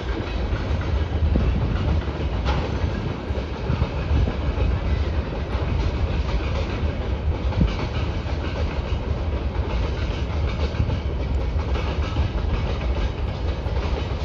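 Freight train of loaded gondola wagons rolling across a steel truss bridge: a steady low rumble with the clickety-clack of wheels over rail joints.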